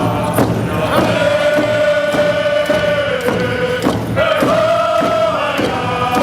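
Voices singing a traditional victory song to a steady drum beat of about two strokes a second. Long held notes fall away about three seconds in, and a new phrase starts about a second later.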